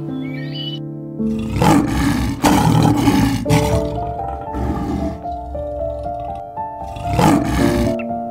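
Lion roaring in loud calls, a burst of them about two seconds in and another near the end, over piano music.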